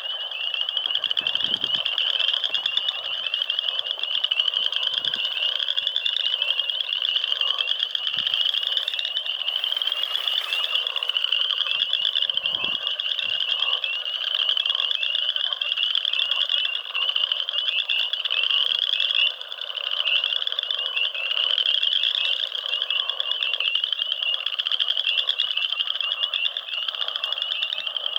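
A dense chorus of frogs calling without a break: a shrill band of rapid, pulsing calls over a lower layer of many overlapping calls.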